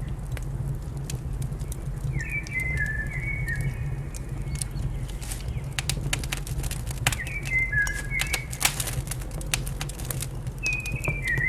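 Fireplace crackling with scattered sharp pops over a steady low hum. Three times, a bird sings a short phrase of stepped whistled notes that step downward.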